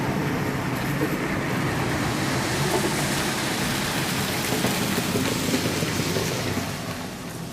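HO-scale model train running along the layout's track, a continuous rolling rattle that swells in the middle and falls away near the end as it passes.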